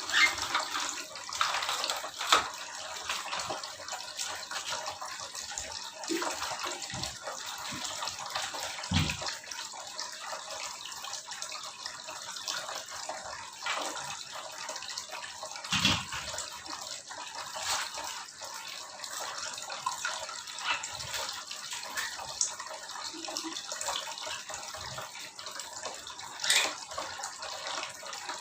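Steady running, splashing water, with scattered short knocks over it.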